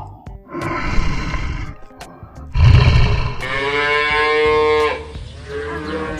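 Cattle mooing: a long drawn-out moo past the middle, then shorter calls near the end, after a noisier stretch with a loud low burst.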